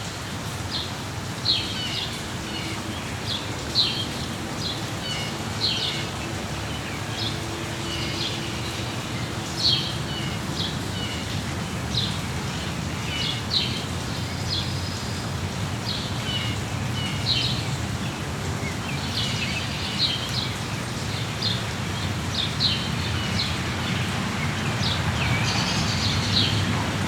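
Small birds chirping in short, high calls, every second or two, over a steady hiss of falling rain.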